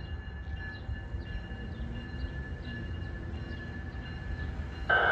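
GO Transit bi-level train moving slowly through the yard with its diesel locomotive pushing from the rear. It makes a steady low rumble with a few faint steady tones above it.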